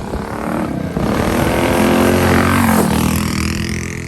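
A mini bike's small engine passes close by. It gets louder, then its pitch drops as it goes past and fades.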